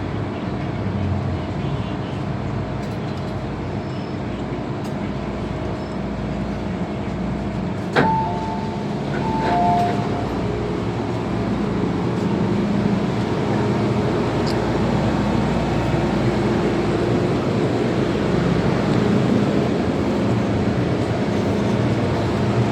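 Interior running noise of an MTR M-Train electric metro car on the move: a steady rumble of wheels on rail with a motor hum. About eight seconds in comes a sharp click, followed briefly by a couple of short higher tones.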